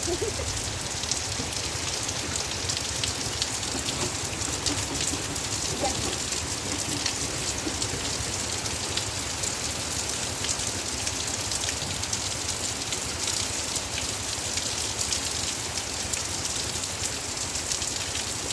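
Heavy rain falling steadily, a dense hiss of countless drops striking surfaces, with many small ticks from individual drops.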